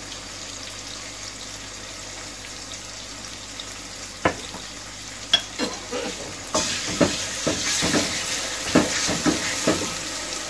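Onions, tomatoes and ginger-garlic paste sizzling in hot oil in an aluminium pot. About four seconds in, a wooden spatula starts stirring and knocking against the pot, and from about six and a half seconds the sizzle grows louder as the mixture is turned.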